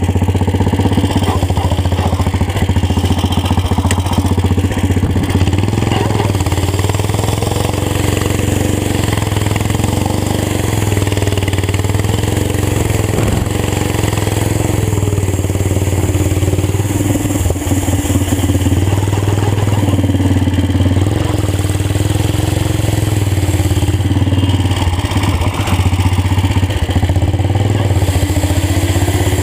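Old tractor engine running loud through a fully open exhaust pipe, a rapid steady chain of exhaust pulses, its speed rising and falling slightly as the tractor drives.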